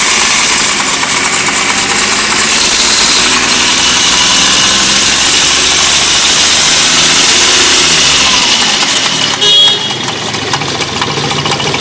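Hyundai Xcent (Grand i10) engine, run with its accessory belt off, revved up and held high for about eight seconds with a 'kat kat kat' rattle, then dropping back to idle. A brief sharp sound comes about nine and a half seconds in. The mechanic suspects a worn timing chain and hydraulic tensioner.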